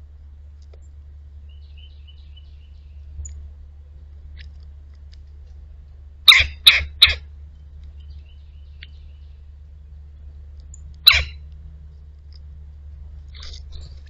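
Birds at a backyard feeder: three short, loud, harsh sounds close to the microphone in quick succession about six seconds in, and one more about eleven seconds in, over faint chirping of small birds.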